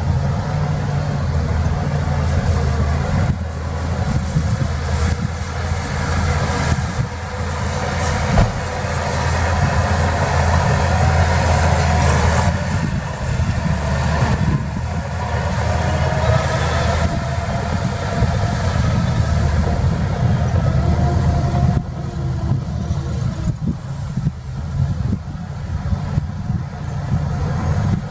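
Heavy diesel earthmoving machinery running steadily with a deep engine rumble that swells through the middle. There is one sharp knock about eight seconds in.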